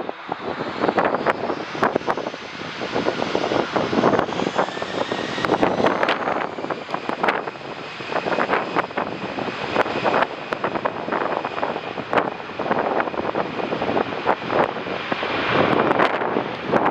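Airliner engines running, with a high whine that slides slowly in pitch, under heavy gusting wind buffeting the microphone.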